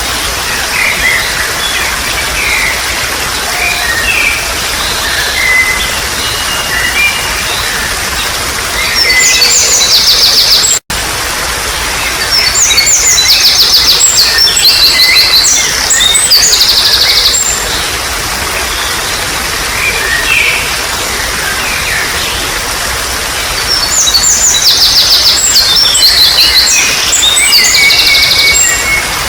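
Trickling water running steadily under birdsong: assorted chirps and whistles, with three loud stretches of fast, high chirping trills. The sound cuts out for a split second about eleven seconds in.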